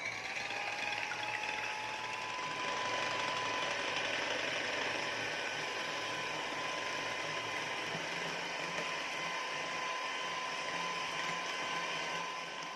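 Electric kitchen mixer running steadily with a motor whine, switched on just before.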